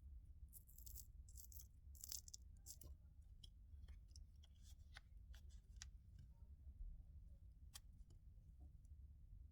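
Faint clicks and light scraping from small hand tools working on a smartwatch's casing and internal parts, densest in the first two seconds and then sparser, over a low steady hum.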